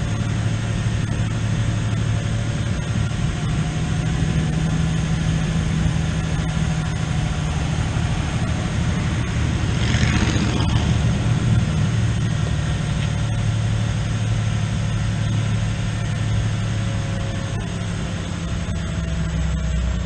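Farm tractor engine running at a steady speed while driving, with a brief rushing noise about halfway through.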